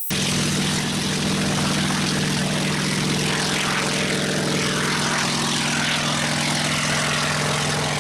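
Sikorsky S-58 helicopter engine running steadily at an even pitch.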